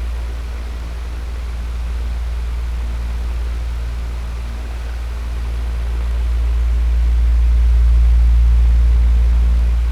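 Electric fan running steadily: a low hum with a rush of air over it, slowly swelling and easing in loudness.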